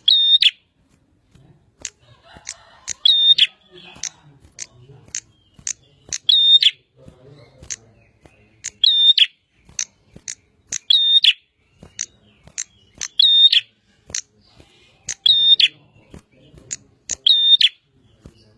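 Prinia (prenjak) calling: short, sharp high chips two or three a second, with a louder, longer phrase about every two seconds.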